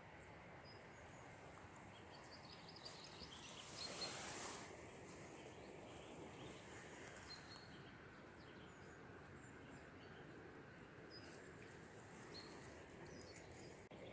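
Faint outdoor ambience with a few short, high bird chirps scattered through it, and a brief rush of noise about four seconds in.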